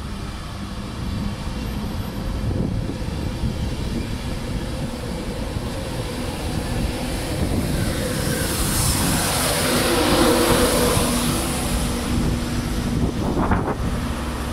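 An LNER Azuma train running past along the platform: a continuous rumble of wheels on rail that swells into a louder rush midway. In the second half a low engine note joins in as an LNER High Speed Train with a diesel power car comes in on a far track.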